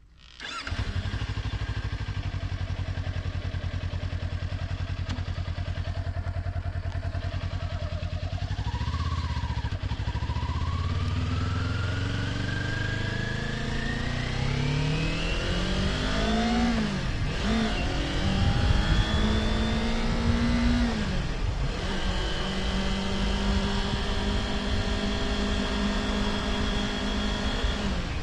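Kawasaki Ninja 400 parallel-twin engine starting up about half a second in and idling steadily, then accelerating away with rising pitch, shifting up twice (brief pitch drops) before settling into a steady cruise.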